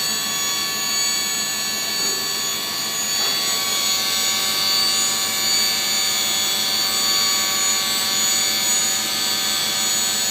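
Steady whine of a dump body's electric-hydraulic hoist pump running, holding the body fully raised.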